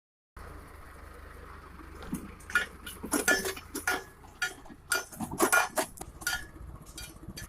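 Irregular metallic clinks and clanks over a low steady hum, with the clanking busiest in the middle stretch.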